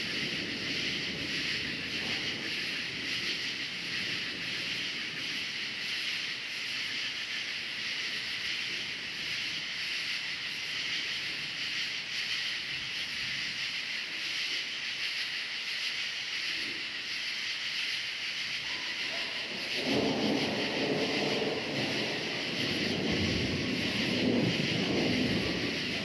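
Crickets chirping in a steady high chorus. About twenty seconds in, a low rumble of thunder swells up underneath.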